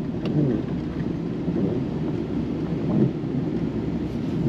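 An engine running steadily, heard as a loud, even low rumble.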